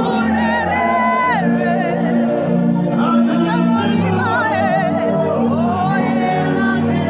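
Worship music: a solo voice singing sustained, wavering lines over a steady held keyboard accompaniment.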